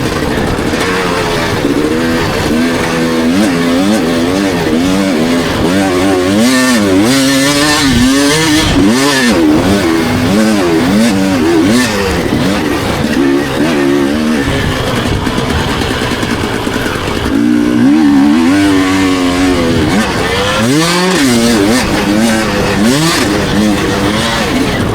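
Dirt bike engine revving up and falling back again and again, the pitch swinging with throttle and gear changes as it is ridden hard.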